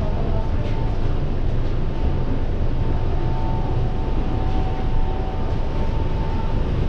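Steady low rumble with a constant high whine from a parked airliner at the gate.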